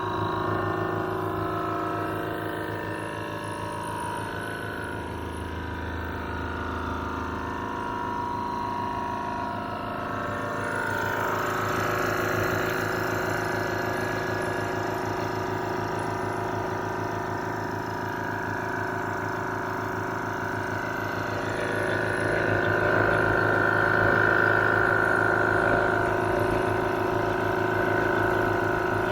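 Restored vintage air compressor running steadily, its pump chattering, getting somewhat louder after about twenty seconds.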